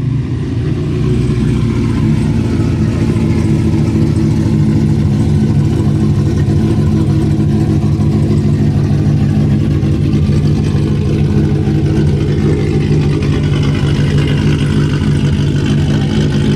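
Car engine running steadily with a loud, even low note that neither rises nor falls.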